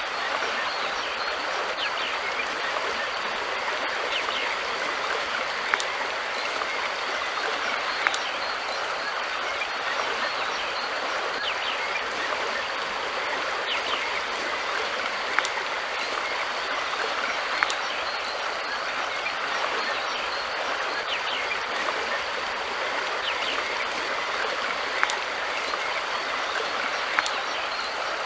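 River water flowing, a steady rushing sound, with short sharp clicks or splashes every few seconds.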